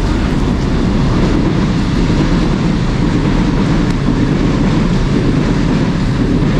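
A train passing close by: a loud, steady rumble that drops away near the end.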